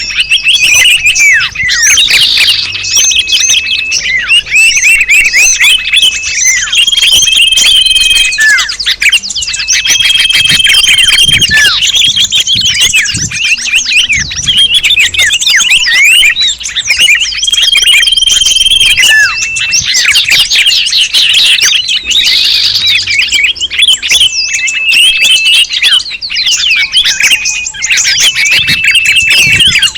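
Bird-lure recording of many small songbirds calling at once: a dense, loud mix of overlapping chirps and trills, with short held whistles coming back every few seconds.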